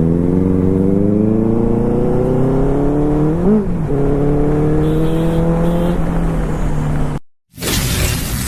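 Superbike engine pulling steadily up through the revs, with a brief rise and drop in pitch about three and a half seconds in like a gear change, then climbing again and holding steady. It cuts off abruptly about seven seconds in, and after a short gap music with a whoosh comes in.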